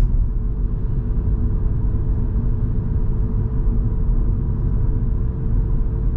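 Steady in-cabin drone of a Volvo V70 2.5T cruising at an even speed: low engine hum and tyre and road rumble, with no change in pitch.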